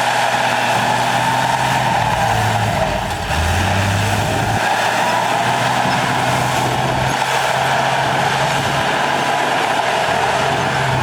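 Heavy diesel earthmoving machinery running under load, its engine note stepping up and down a few times, with a steady high whine over it.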